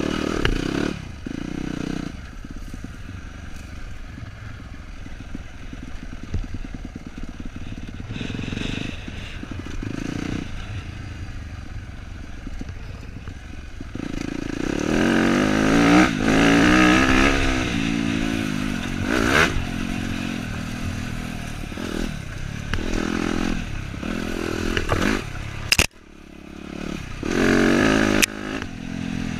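Dirt bike engine running while being ridden, the revs rising and falling with the throttle, with rattling and scraping from the bike over the trail. The sound drops out sharply for a moment near the end, then picks up again.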